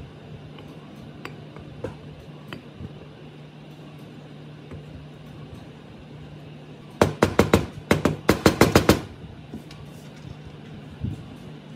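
A quick run of about a dozen sharp knocks over roughly two seconds, the loudest thing here, over a steady low hum and a few scattered light clicks.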